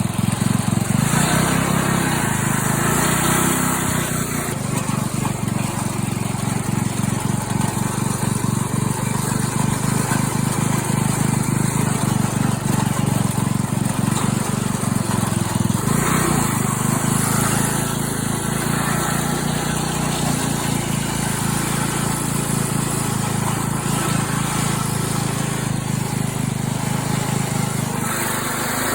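A small tractor's engine running steadily, a lawn-mower-like drone with a fast even pulse.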